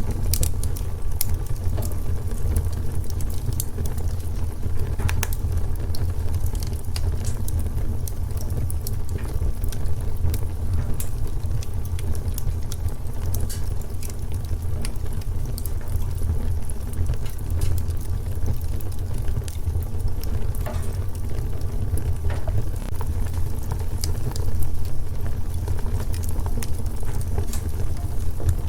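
Wood fire in a fireplace crackling, with frequent small irregular pops over a steady low rumble of the flames.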